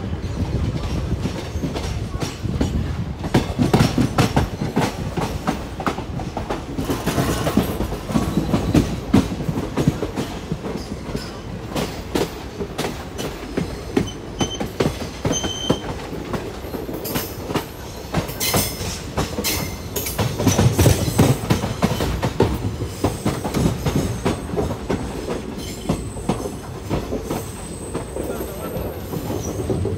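Passenger train running along the track, heard from aboard a coach: a steady rumble of wheels on rails, broken by many irregular clicks and clacks as the wheels run over rail joints.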